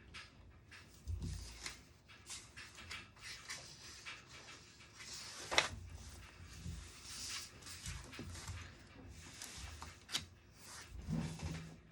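Desk sounds of someone studying: irregular scratching and rustling of writing and handling paper, with a sharp click about halfway through and a soft thump near the end.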